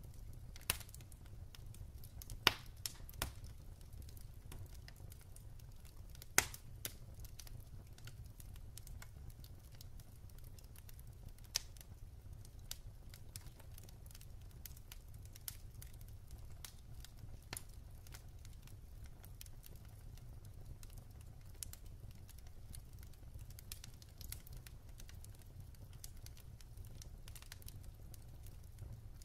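Wood fire crackling in a fireplace: scattered sharp pops and snaps, the loudest about two and a half and six seconds in, over a low steady rumble of the burning flames.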